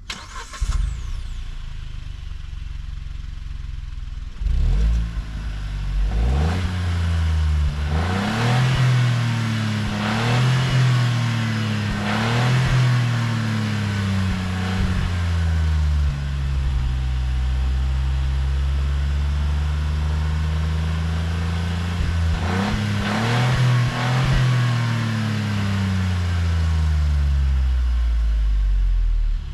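2023 Kia Picanto GT's 1.0-litre turbocharged three-cylinder engine accelerating hard through the gears of its five-speed manual. From about four seconds in, the revs climb and drop back at each gear change, then fall away and settle. A second short burst of revs near the end is followed by a long fall as the car slows.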